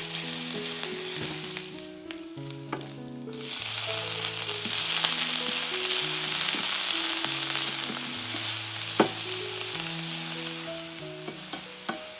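Food frying in hot oil in a pan, sizzling and being stirred, with a few sharp taps of the utensil against the pan. The sizzle grows much louder about three seconds in.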